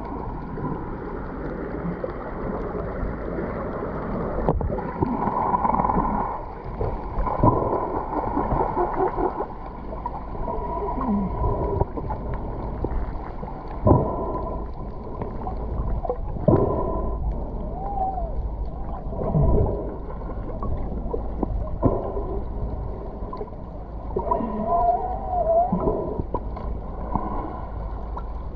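Water sloshing and gurgling close around the camera, with a few sharp knocks and thumps.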